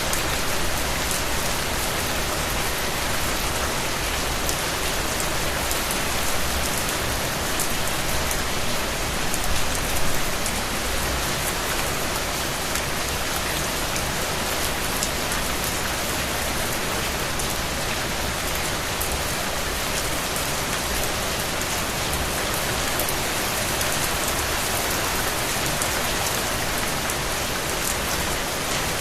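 Steady rain falling and pattering on a surface, an even hiss with many small drop ticks throughout.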